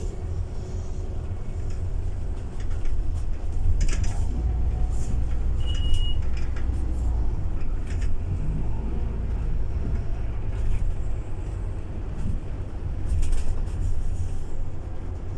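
Scania city bus driving, a steady low engine and road rumble with scattered clicks and knocks. A short high beep sounds about six seconds in.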